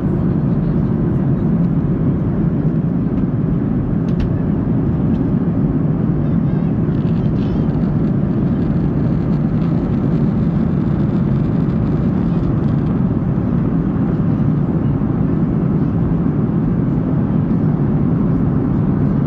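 Steady low roar of a Boeing 737-800 in flight, heard from inside the cabin: its CFM56 jet engines and the rush of air over the fuselage.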